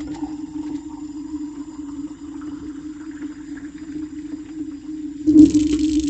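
Steady low hum with a few faint small clinks; about five seconds in, a kitchen tap is turned on and water starts running.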